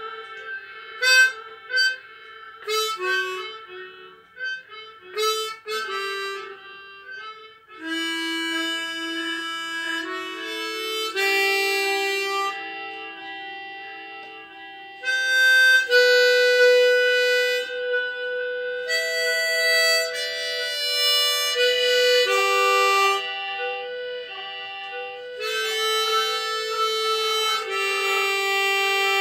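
Harmonica playing a slow melody: short, separate notes for the first several seconds, then long held notes and chords.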